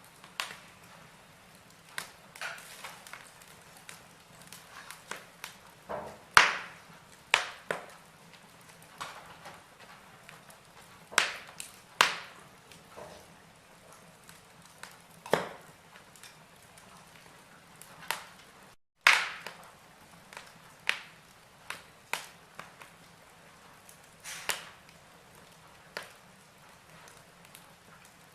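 Wood logs burning in a fireplace, crackling with irregular sharp pops and snaps over a faint hiss, a handful of them much louder than the rest. The sound cuts out for a split second about two-thirds of the way through.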